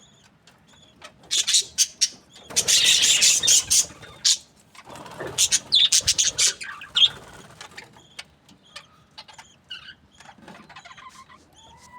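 Budgerigars chirping in short, high calls, with two loud spells of dense rustling noise in the first half.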